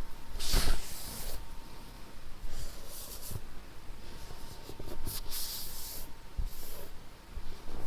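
Close-miked ASMR spa-treatment handling sounds: about four short, soft swishing and rubbing noises at irregular intervals, with faint taps between them.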